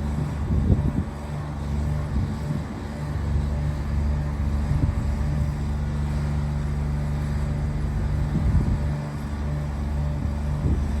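Engine of a 2008 GMC 7500 bucket truck running steadily, with small swells in level about a second in and again near the end.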